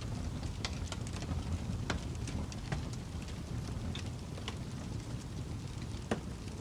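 Campfire crackling: a steady low rumble of burning wood with irregular sharp pops, the strongest one near the end.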